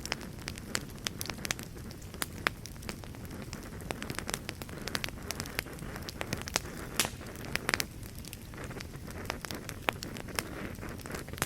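Wood fire burning in a fireplace: steady low rumble of flames with frequent irregular crackles and pops.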